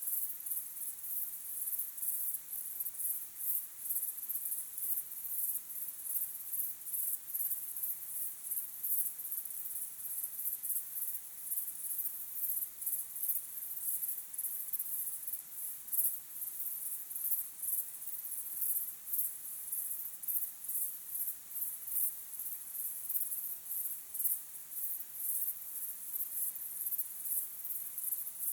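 Crickets chirping in a dense evening chorus: a very high-pitched pulsing, a few pulses a second, that never stops.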